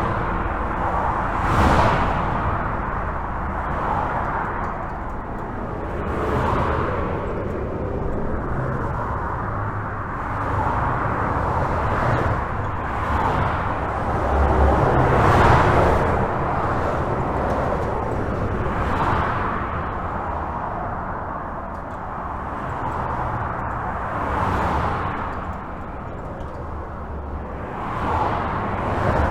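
Highway traffic heard from beneath a bridge: a constant rush of tyres and engines, swelling every few seconds as individual vehicles pass, about seven passes in all.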